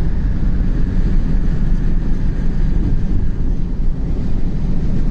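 Steady low rumble of a moving car, road and engine noise.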